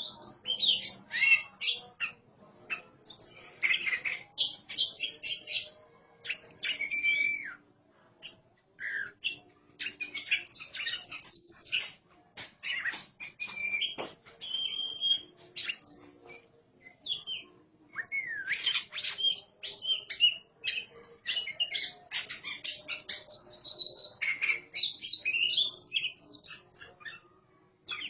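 A pair of oriental magpie-robins singing back and forth: fast, varied runs of whistled, sweeping and scratchy notes, with short pauses between runs.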